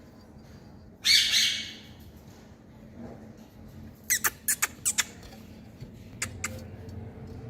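Green rose-ringed (Indian ringneck) parakeet giving one loud, harsh squawk about a second in. A quick run of five or six sharp clicks follows midway, with two more clicks near the end.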